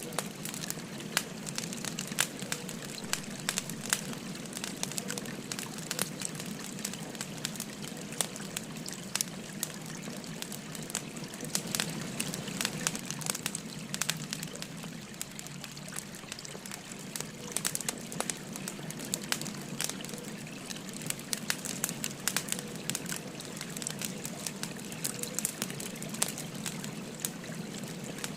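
Wood fire crackling with frequent sharp pops over the steady trickle of a flowing stream.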